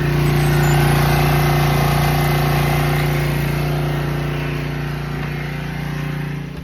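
Portable generator engine running steadily under load, with a strong, even hum. It grows gradually fainter and drops off sharply near the end.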